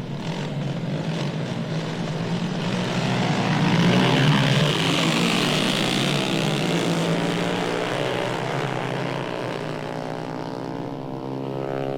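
Propeller aircraft flying past: the engine grows louder to a peak about four seconds in, then fades as its pitch drops, and the recording cuts off abruptly at the end.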